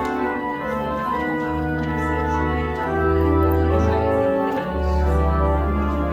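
Church organ playing slow, sustained chords over deep held bass notes, the harmony changing every second or so.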